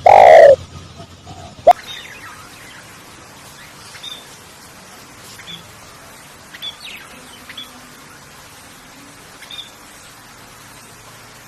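Birds calling: a loud arching call right at the start, a sharp click just under two seconds in, then faint, short high chirps every second or two over a steady faint hiss.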